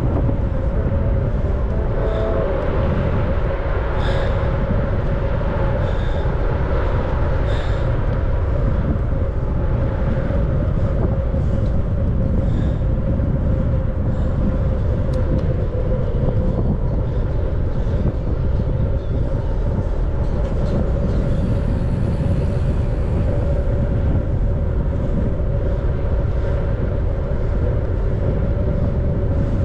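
Steady wind rumble on the microphone and road noise of a bicycle ride, heavy and low, with a faint steady hum and a few light ticks in the first several seconds.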